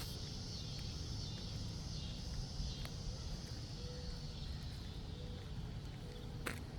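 Steady chorus of crickets, a constant high-pitched hum, over a low rumble, with a sharp click near the end.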